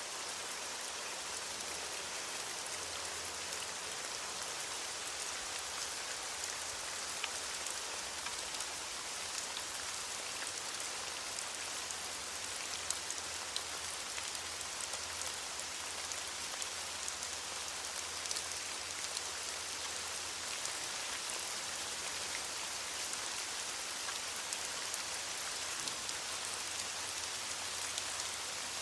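Steady rain falling on leaves, an even hiss with many small drop patters scattered through it.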